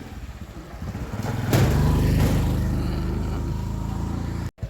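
Motorcycle engine running, getting louder about a second and a half in, then breaking off suddenly near the end.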